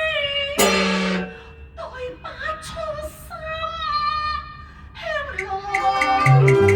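Cantonese opera singing: a voice holds long notes that slide in pitch, over string accompaniment. About five seconds in, the instruments take over with steady plucked notes in a quick, even rhythm.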